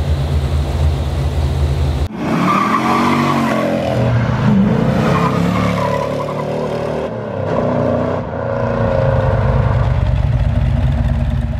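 A Chevrolet 454 big-block V8 running steadily, then, after a sudden cut about two seconds in, a car engine revving with tire squeal.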